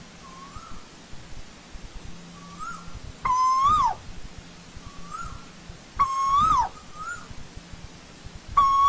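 Asian koel calling: three loud calls about two and a half seconds apart, each a held note that lifts slightly and then drops sharply, with fainter, shorter calls between them.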